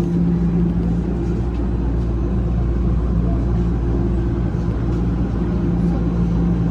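TTC Toronto Rocket subway train giving a steady electrical hum over a low rumble, its pitch holding level.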